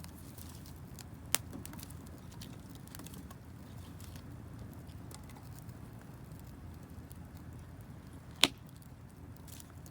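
Wood campfire burning, with faint crackling over a low steady rush and two sharp pops, one about a second in and one near the end.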